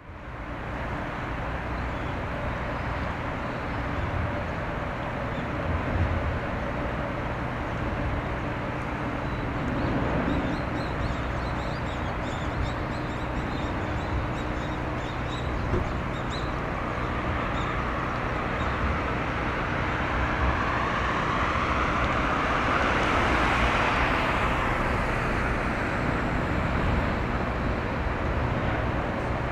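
Steady outdoor traffic-like noise with a low hum underneath, and a vehicle passing close by about two-thirds of the way through, swelling and then fading.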